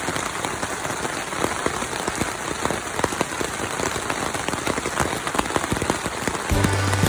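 Steady rain falling, with many individual drops hitting close by as sharp ticks. Music starts near the end.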